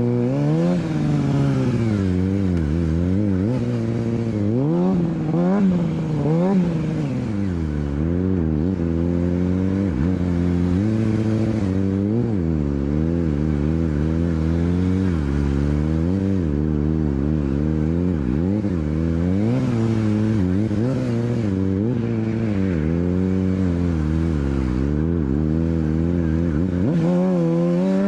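Motorcycle engine revved up and down over and over, its pitch rising and falling roughly once a second or two, with a steady low drone beneath.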